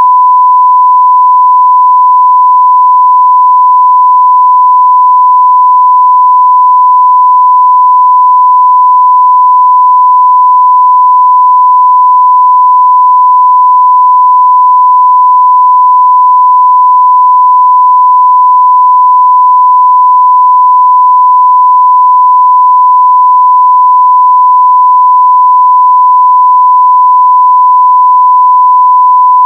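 A 1 kHz sine-wave test tone at full level (0 dB), one pure steady pitch held without change.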